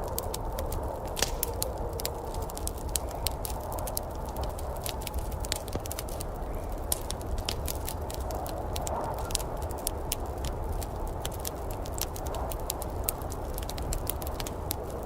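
Wood fire in a fireplace crackling, with many irregular sharp pops and snaps over a steady low rushing background.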